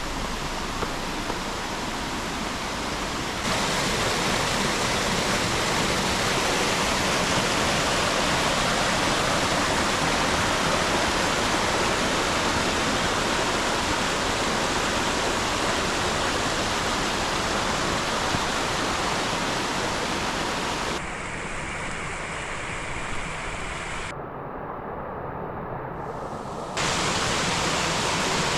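Rushing water of a mountain valley stream, a steady wash of noise that jumps abruptly in level and tone several times.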